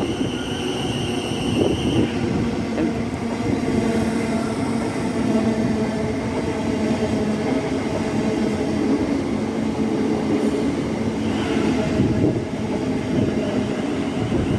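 Class 700 electric multiple unit running on the rails: a steady train rumble, with a high tone that cuts off about two seconds in and returns briefly near the end.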